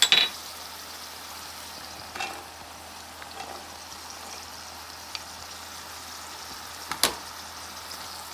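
Shrimp and onions sizzling in oil in a stainless steel pan, stirred with a wooden spatula. A sharp knock of the spatula on the pan comes right at the start, a lighter one about two seconds in and another near the end.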